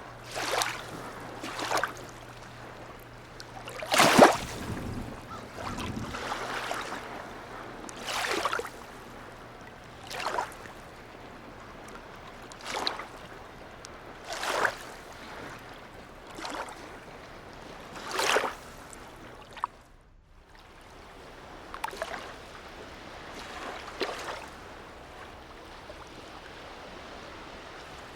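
Small waves slapping and splashing against the harbour edge in surges about every two seconds, the loudest about four seconds in, over a faint low steady hum that stops about twenty seconds in.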